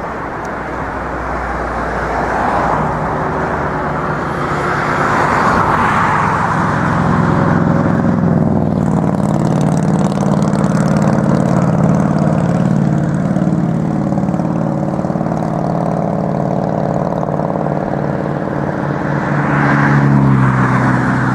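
Road vehicles: a steady engine drone with passing-car tyre noise swelling up twice, once a few seconds in and again near the end, where the drone drops in pitch.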